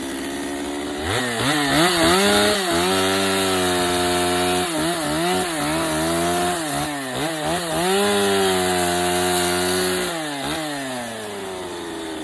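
Stihl 025 two-stroke chainsaw with a 16-inch bar cutting into a log: it idles, is revved up about a second in, and its engine speed dips and recovers again and again as the chain bites into the wood. About ten seconds in it drops back to idle.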